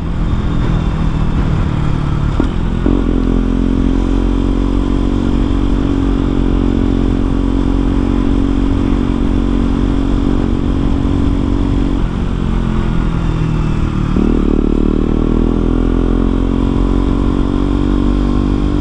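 KTM Duke 125's single-cylinder four-stroke engine running through an aftermarket exhaust while riding. The engine note shifts about two seconds in and holds steady for some ten seconds. It drops around twelve seconds in, then climbs again as the bike accelerates.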